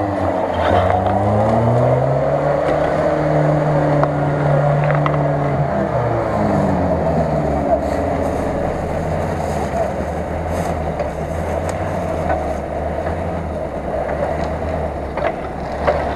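Off-road 4x4's engine revving up over the first couple of seconds, holding high for about three seconds, then dropping back and running on at lower revs, with the vehicle stuck in deep mud.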